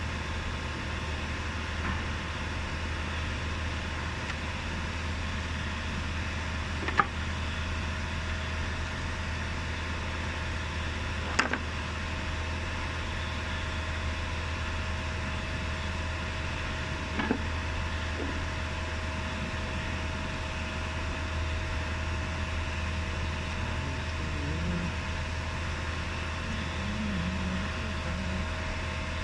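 Car engine idling steadily, with three sharp clicks or taps spread through it.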